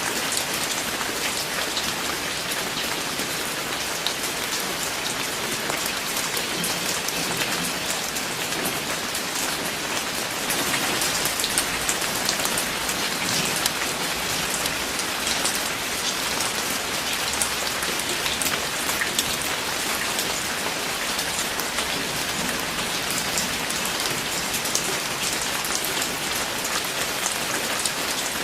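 Steady rain falling on a surface, a dense hiss of many individual drops.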